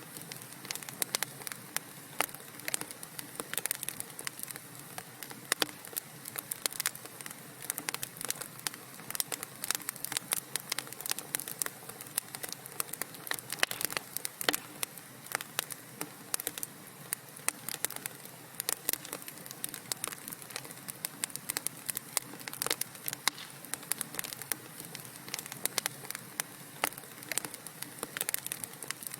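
Wood fire crackling in a fireplace: a dense, irregular run of sharp pops and snaps over a faint steady hiss.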